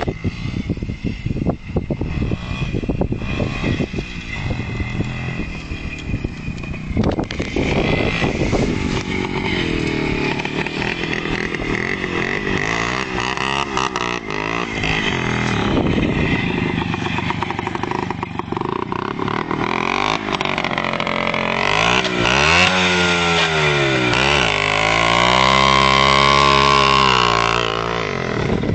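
A WSK two-stroke single-cylinder motorcycle engine revving hard, its pitch rising and falling again and again, most strongly in the second half, as the rear wheel spins in the grass and throws up turf and blue two-stroke smoke.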